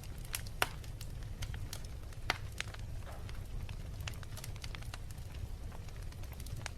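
Wood fire crackling in a fireplace: irregular sharp pops and snaps over a low steady rumble, with two louder pops, one near the start and one about two seconds in.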